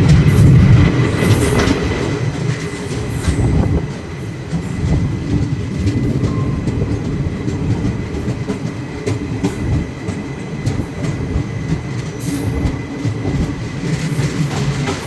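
Indian passenger train running on the rails: a steady low rumble with repeated clicks of the wheels over the track and a faint steady high whine.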